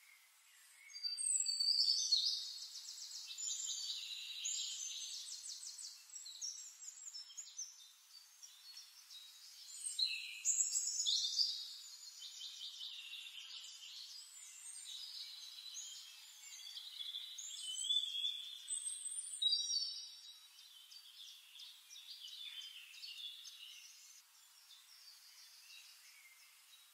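A songbird singing long, varied phrases of rapid trills and whistled sweeps. The song swells three times: near the start, about ten seconds in and about eighteen seconds in.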